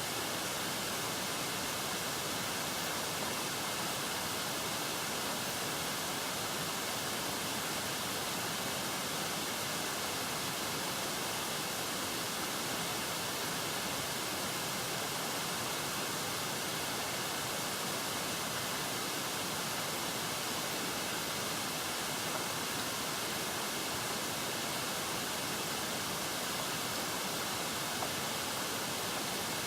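Steady, unchanging hiss, even in level throughout, with no separate sounds standing out.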